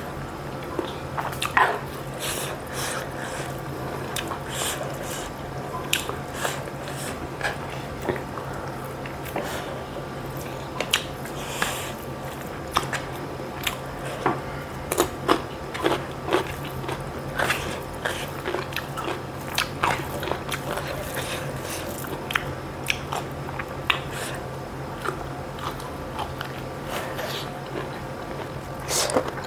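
A person eating by hand close to the microphone: chewing with irregular wet mouth clicks, smacks and occasional crunches, over a steady low hum.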